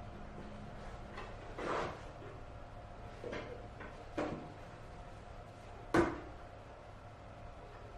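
Cork flooring plank being cut in a manual laminate floor cutter: a few separate clunks and knocks from the cutter and the board, the sharpest about six seconds in.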